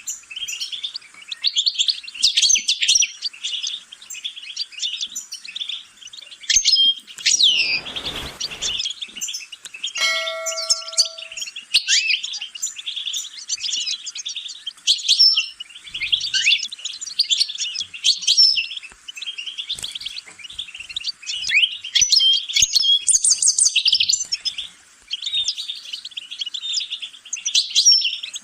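A finch sings a fast, continuous twittering song of rapid high chirps and trills. A brief whoosh comes about eight seconds in, and a short steady ringing tone, like a ding, about ten seconds in.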